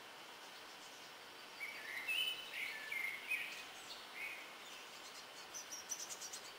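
A small songbird calling: a run of short clear notes starting about one and a half seconds in, then a quick series of high ticks near the end, over a faint steady hiss.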